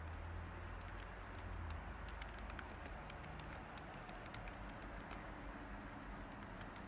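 Light, irregular computer keyboard typing clicks over a steady background of white noise, with a low rumble that fades out about two seconds in.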